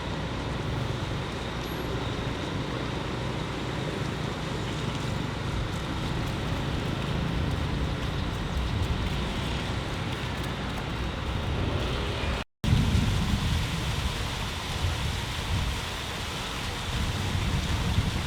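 Vehicle running with steady engine and road noise, heavy at the low end; it drops out briefly about twelve seconds in, then goes on.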